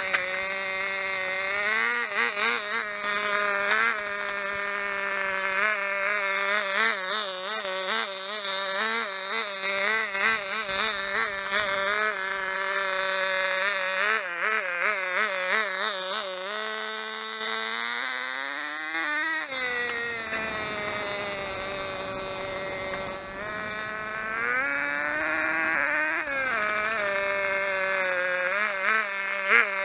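Small model engine of a 1/16 radio-controlled car running at high revs, its pitch wavering up and down with the throttle. About 17 seconds in it revs steeply higher, then drops back.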